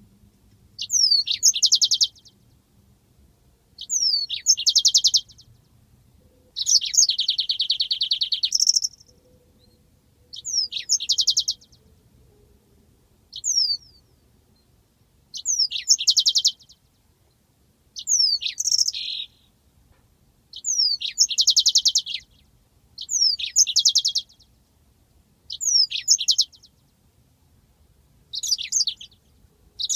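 Yellow-fronted canary (Mozambique canary) singing its rolling song. Short phrases of a quick down-slurred note run into a rapid, high, buzzy trill, repeating about every two seconds, with one longer roll about seven seconds in.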